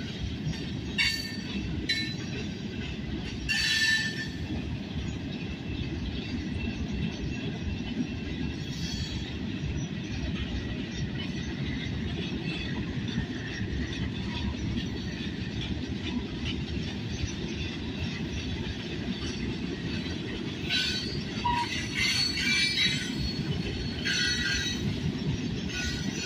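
Freight train of gondola cars rolling past: a steady low rumble of steel wheels on rail, broken by short high-pitched wheel squeals several times near the start and again in a cluster near the end.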